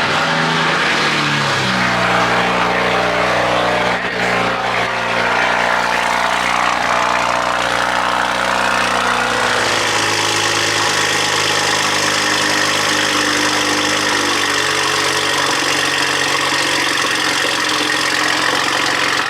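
Car engine cold-starting: it catches at once and runs at a loud, high cold idle. The pitch eases down over the first couple of seconds and steps down again about ten seconds in as the idle settles.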